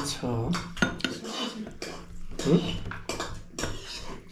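Spoons and a serving ladle clinking and scraping against plates and bowls, several separate clinks, as dal is served and eaten.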